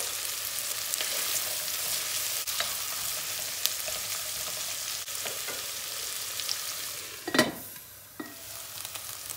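Sliced onions and carrots sizzling as they fry in hot oil in a pot, stirred with a wooden spoon scraping the pan. Near the end there is a knock and the sizzling becomes quieter.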